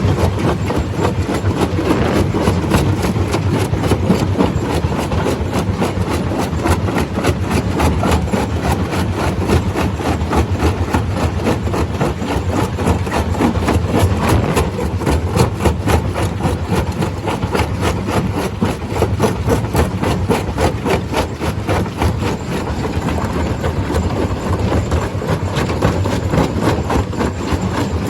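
Stone crusher machine running, a continuous loud mechanical din with a deep rumble and a rapid, dense clatter of knocks from rock being crushed.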